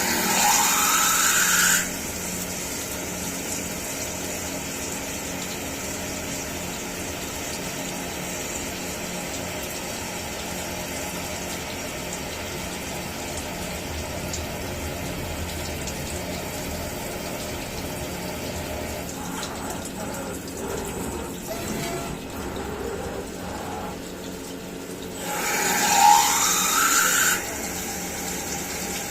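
CNC milling machine running, a steady hum with a hiss like flowing liquid. Twice, at the start and again near the end, a louder rush with a rising whine lasts about two seconds and cuts off suddenly.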